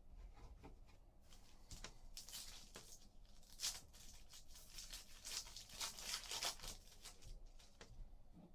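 A trading-card pack being torn open and its wrapper crinkled, with cards handled: faint, irregular crackling and small clicks, loudest a little past the middle.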